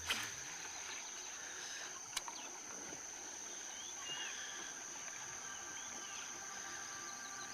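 Jungle ambience: a steady high-pitched insect drone, with short bird chirps scattered through it. There is a sharp click right at the start and another about two seconds in.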